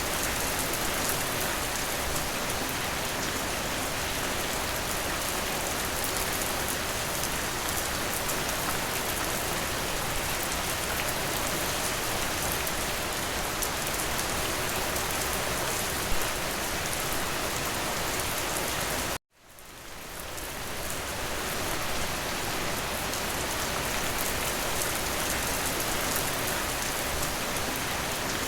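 Steady rain falling, a dense hiss with individual drops ticking through it. About two-thirds of the way in the sound cuts out for an instant, then fades back up over a couple of seconds, like a splice where the recording loops.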